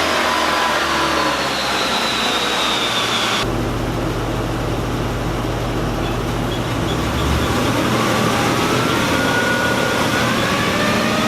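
Dodge Durango's 5.7-litre Hemi V8, fitted with long-tube headers and an aftermarket exhaust, running on a chassis dyno. The engine note falls as it comes off a pull. After an abrupt cut about three seconds in there is a steady low drone, and near the end the pitch climbs again as the engine revs up.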